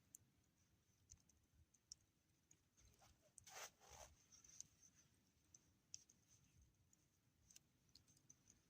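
Near silence with faint scattered clicks and a brief soft rustle about three and a half seconds in.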